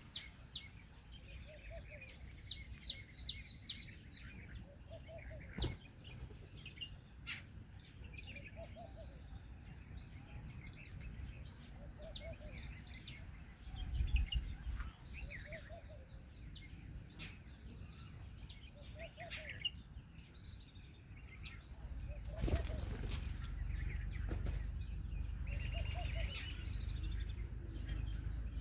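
Many small birds chirping and twittering, with a short low call repeating every couple of seconds. About three quarters of the way in comes a brief loud flurry of wing flaps, after which a low rumble runs on underneath.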